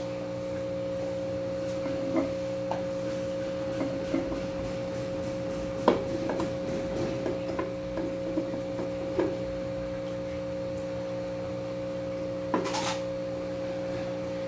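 Rocks being set into an aquarium hardscape: scattered hard clicks and knocks of stone on stone or glass, with a brief rattle near the end, over a steady hum.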